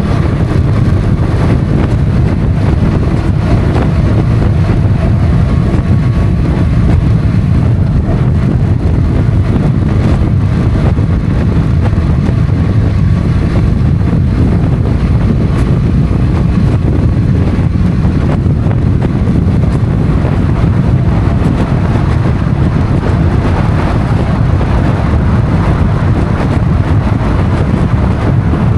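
Motorcycle engine running at a steady road speed, with heavy wind rush on the microphone.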